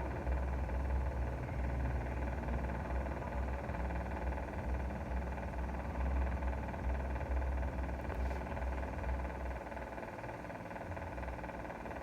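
Steady vehicle running noise with a low rumble, easing slightly near the end.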